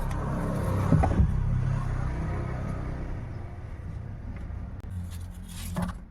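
Car running on the road, heard from inside the taxi: a steady low engine and road rumble, with two sharp thumps about a second in.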